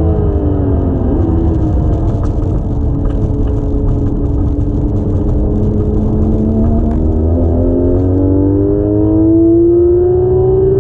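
Engine of a Porsche 991.1 GT3 RS, a naturally aspirated 4.0-litre flat-six, heard from inside the cabin over road and tyre rumble. Its note falls as the car slows over the first half, then climbs steadily from about six seconds in as it accelerates.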